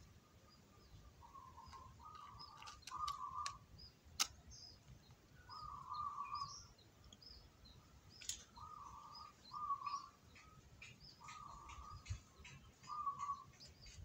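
Small birds chirping in short high notes, with a repeated lower sound in half-second pulses and a few sharp clicks, the loudest about four seconds in.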